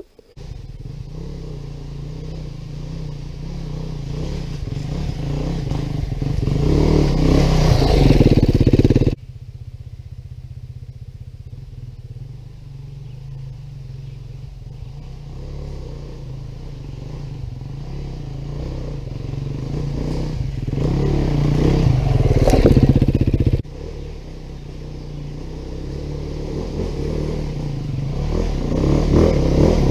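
A 2019 Beta 390 RR-S single-cylinder four-stroke enduro dirt bike engine pulling under load on a trail. It comes in abruptly, then builds in loudness over several seconds. It drops off sharply to a steadier, lower note twice, about a third of the way in and about three quarters in, and builds again each time.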